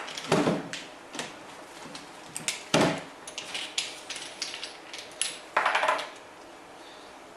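Metal clinks and clanks of tools and steel parts being handled on a workbench: a string of knocks, the loudest about three seconds in, and a short scraping rattle near the six-second mark.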